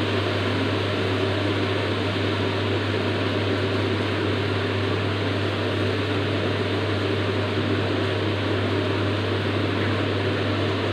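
Cooking burner's flame running steadily under the pan, a constant rushing noise with a low hum.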